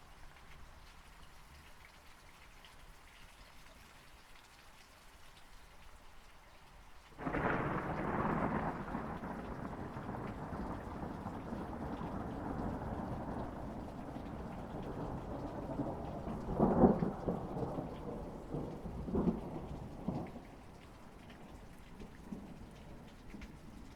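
Steady rain falling, then about seven seconds in a loud thunderclap breaks and rolls on as a long rumble, with a few sharper cracks partway through before it fades back to the rain.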